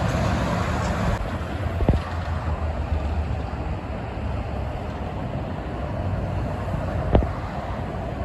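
Steady rumble of highway traffic with trucks going by, and two short knocks, one about two seconds in and one near the end.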